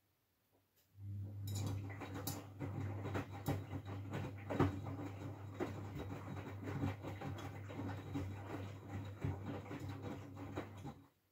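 Miele W433S washing machine's drum turning during the main wash while heating to 60 °C. The motor hum starts about a second in, with laundry tumbling and many clicks and clatters against the drum, and it stops shortly before the end.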